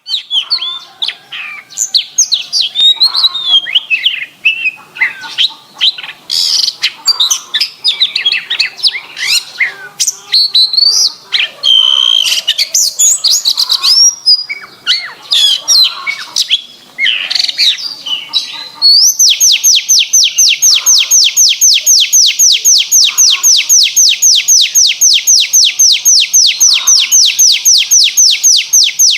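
Domestic canary singing: a varied string of quick chirps and whistled phrases, changing into a long, fast, even trill of rapidly repeated notes about two-thirds of the way in.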